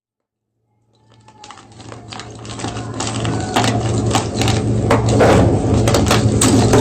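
Gym chalk block being crushed, crumbling in dense crackles and sharp snaps that fade in over the first few seconds. A steady low hum runs underneath.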